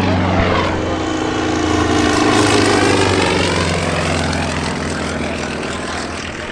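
Propeller aerobatic plane's piston engine droning as it passes low, swelling and fading with the pass around the middle.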